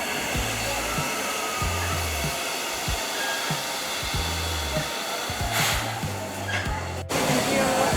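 Steady loud hiss of steam escaping from a steam locomotive, over background music with a low repeating bass beat. It cuts off abruptly about seven seconds in.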